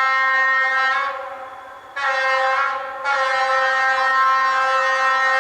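Train horn sounding a desperate warning at close range in repeated blasts: a long blast that fades out about a second in, a short blast about two seconds in, then a long held blast from about three seconds in.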